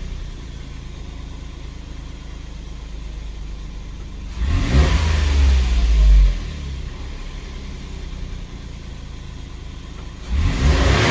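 Daihatsu HiMax kei truck's three-cylinder engine idling, then revved up about four seconds in, held for about two seconds and let fall back to idle, and revved again near the end.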